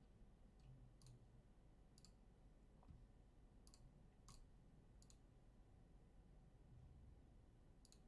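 Near silence with a few faint, sharp clicks at irregular intervals, about six in all.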